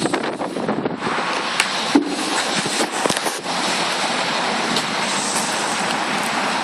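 Strong wind of about 50 mph blowing across the microphone: a loud, rushing noise that flutters and buffets for the first second, then settles into a steadier roar, with a few sharp knocks in the middle.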